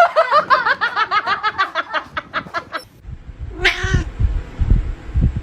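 A cat making a rapid run of short, chirping calls, about eight a second, for nearly three seconds. One longer meow follows about halfway through, along with some low thumps.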